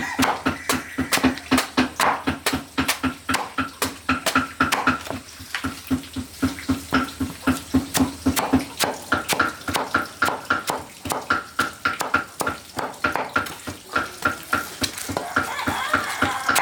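Knife chopping on a cutting board in a steady, rapid rhythm of about four strokes a second, typical of mincing meat for a filling.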